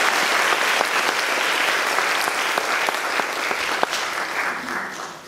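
Concert audience applauding, the clapping tapering off near the end.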